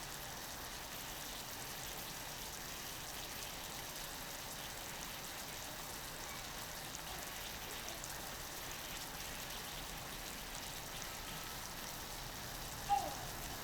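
Sirloin steak sizzling steadily on a hot iron griddle, an even hiss. A brief falling squeak sounds near the end.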